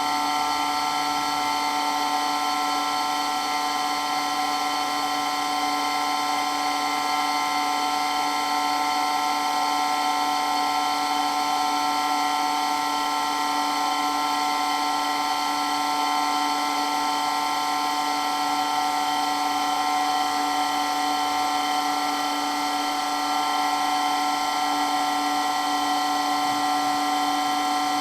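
Electric water pump running steadily, a constant motor whine made of several steady tones that never changes in pitch or level.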